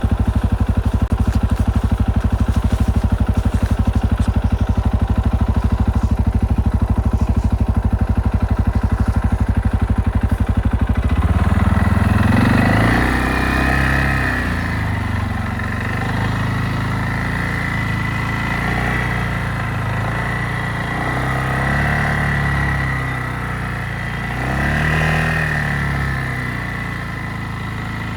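ATV (quad bike) engine idling steadily, then from about eleven seconds in revving up and down several times.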